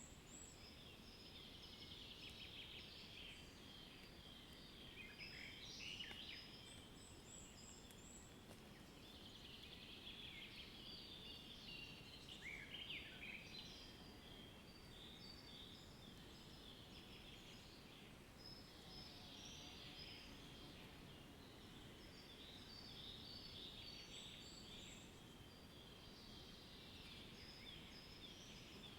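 Faint chorus of many birds chirping and twittering without pause, with a few quick downward-sweeping whistles.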